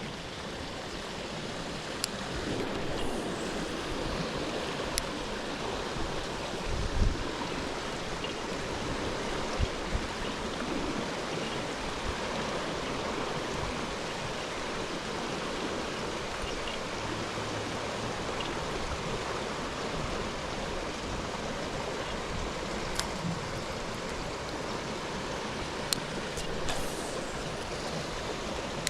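Steady rushing noise of wind and moving water, with a few low gusts buffeting the microphone and a few faint sharp clicks.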